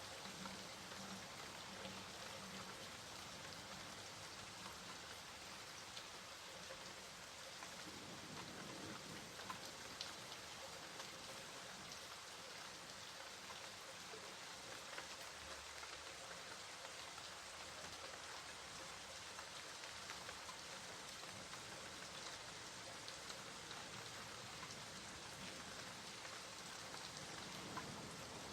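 Steady rain falling on a surface, with scattered individual drop ticks.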